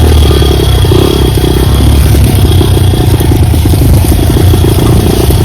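Dirt bike engine running steadily and loud and close, the bike being ridden along a trail.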